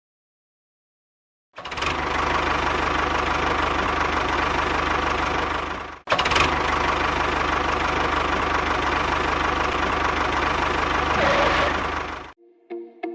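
An engine running steadily with an even low throb, starting about a second and a half in, cut briefly about six seconds in, then running on until it stops sharply near the end.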